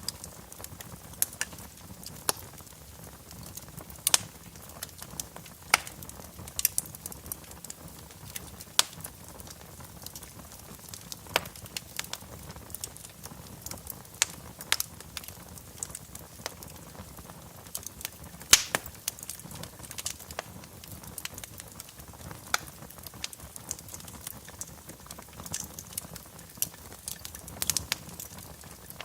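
Wood fire crackling in a fireplace: irregular sharp pops and snaps, a few each second, over a low steady hiss.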